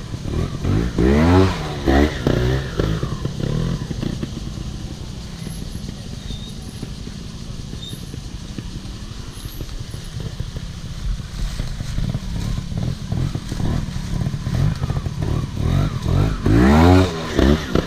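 Off-road motorcycle engine running, revved up sharply twice, about a second in and again near the end, with steady lower running between.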